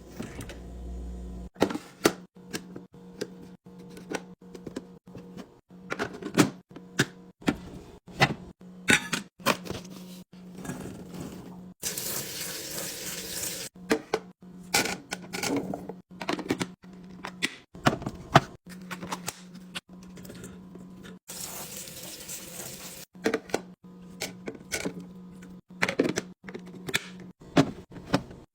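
Plastic containers, jars and bottles clacking and knocking as they are handled and set down, in a quick irregular series of sharp knocks. There are two stretches of steady rushing noise, about twelve and twenty-two seconds in, over a faint steady hum.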